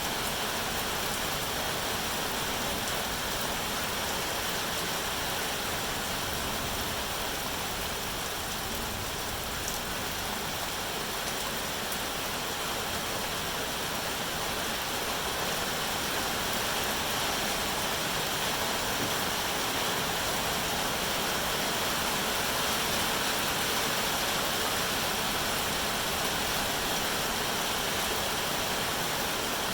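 Steady rain, an even, unbroken hiss of falling drops.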